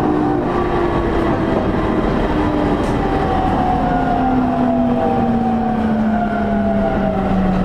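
E231-0 series electric train's traction motors and inverter whining from inside the motor car, several tones gliding steadily down in pitch as the train slows, over a constant rumble of wheels on rail.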